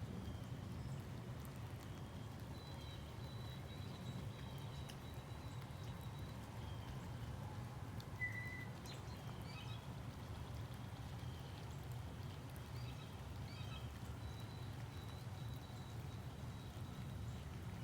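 Outdoor morning ambience: a steady low rumble with faint, thin, high bird chirps scattered through, and one short clearer chirp about eight seconds in.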